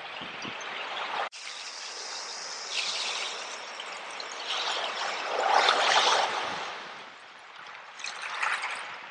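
Ocean waves washing onto the shore, the noise of the surf swelling to its loudest about halfway through and again, more softly, near the end. A sudden brief cut-out about a second in.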